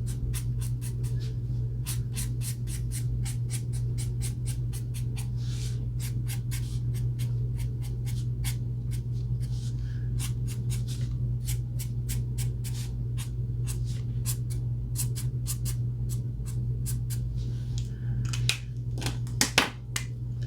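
Ohuhu alcohol marker strokes on paper: a long run of short, quick scratchy strokes, roughly two or three a second, colouring in hair. A steady low hum runs underneath, and a few louder clicks come near the end.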